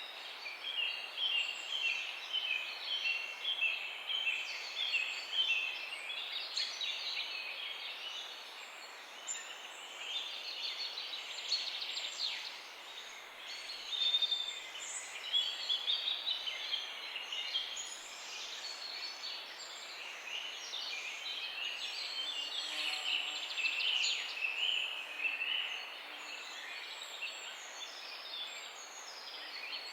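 Several small birds chirping and singing over a steady background hiss, their calls overlapping. A quick repeated series of chirps opens the stretch, and the chorus grows busier in the middle and again towards the end.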